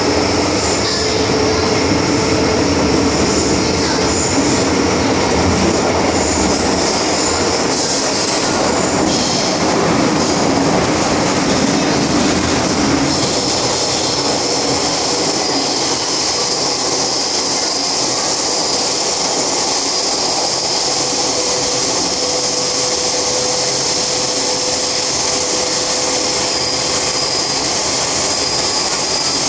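MTR M-Train metro train running steadily, with continuous wheel-on-rail noise and a high-pitched wheel squeal held over it.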